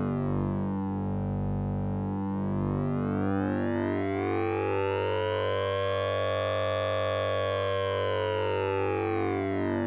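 Synthesizer sync and ring-modulation effect from the Orange Vocoder plugin: a steady low electronic drone under stepping tones, with its upper tones sweeping slowly up to a peak about two-thirds of the way through and then back down, like a siren.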